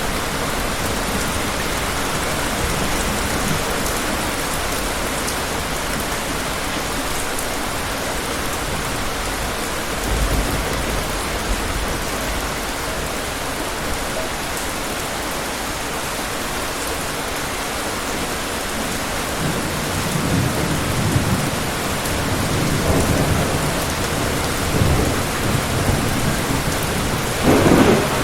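Steady rain hissing, with low rumbles of distant thunder about ten seconds in and repeatedly over the last third, the loudest near the end.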